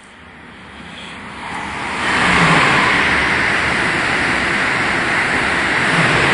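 Amtrak Acela Express high-speed trainset passing through the station: a rush of wheels on rail and air builds over the first two seconds, holds loud and steady, then begins to fade near the end.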